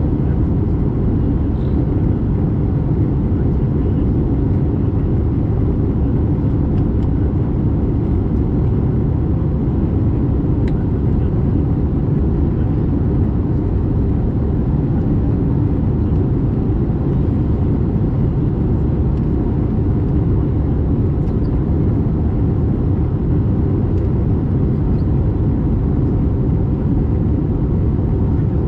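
Airbus A320 cabin noise in flight: the steady rush of engines and airflow, heavy and low, with a faint steady hum over it.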